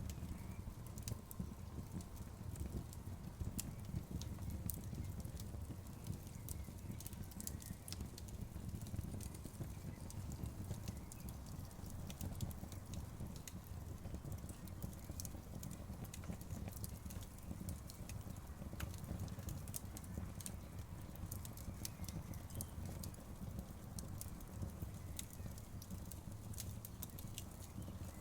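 Campfire crackling, with frequent small, sharp pops scattered irregularly over a steady low rush of a flowing river.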